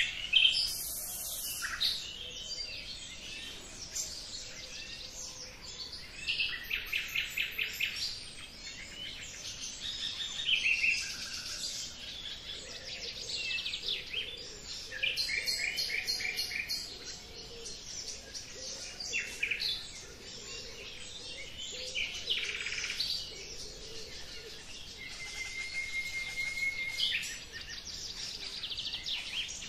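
Songbirds singing and calling together: a mix of short chirps and fast trills of rapidly repeated notes.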